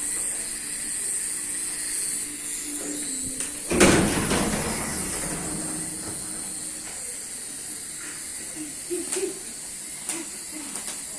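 Small toy drone helicopter hovering, its tiny motors and rotors giving a steady high whine and hum, with a loud thump about four seconds in and a few light knocks later.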